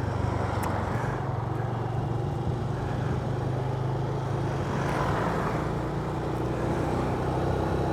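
Motorbike engine running steadily at cruising speed, with a constant hiss of wind and road noise.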